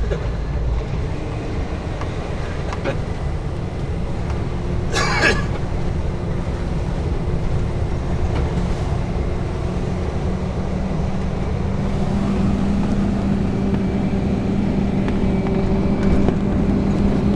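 Scania R420 truck engine heard from inside the cab while driving, a steady drone that grows a little stronger about ten seconds in. About five seconds in there is a brief hiss.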